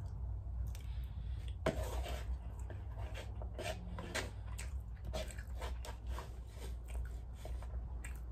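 Close-up chewing and lip smacking of a person eating fried rice: irregular wet clicks and smacks over a steady low hum.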